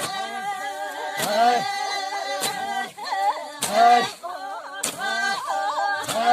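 Several voices singing unaccompanied, with long held notes and lines that overlap. A sharp crack about every 1.2 seconds keeps the beat: five strokes in all.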